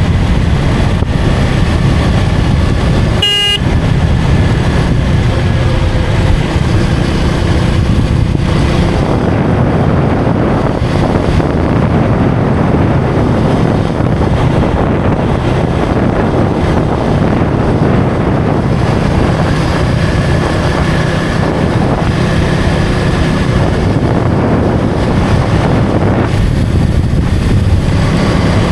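KTM Duke 250's single-cylinder engine running steadily at road speed, with wind rushing over the rider's microphone. A vehicle horn gives one short toot about three seconds in.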